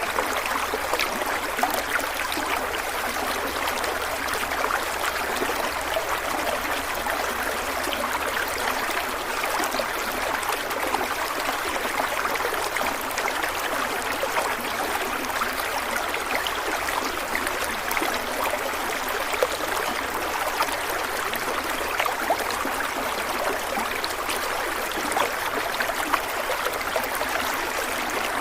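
Stream water running steadily over rocks, a continuous rushing babble with small splashes and trickles.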